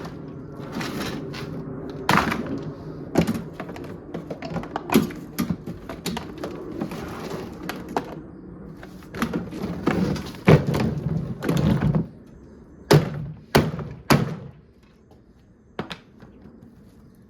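Irregular knocks and thunks as a portable washing machine is being broken apart, over a low steady hum. The blows come thick for the first twelve seconds, then a few loud ones follow, and one last knock comes near the end.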